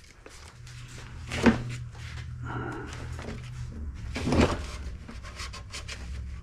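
Light clicks and knocks of a plastic dash cluster panel being handled and turned over, with a low steady hum underneath. There are two louder knocks, about a second and a half in and a little past four seconds.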